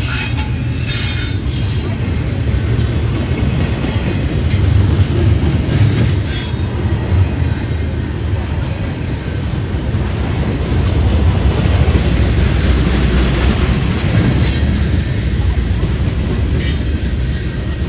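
Train rolling past close by: a steady loud rumble of wheels on rail, with a few sharp clicks through it.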